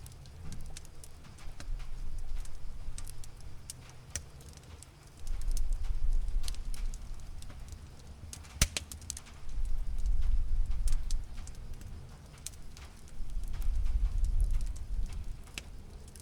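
A cat purring in slow, rumbling waves that swell and fade every couple of seconds, with the sharp pops and crackles of a campfire scattered through it, one louder pop about halfway.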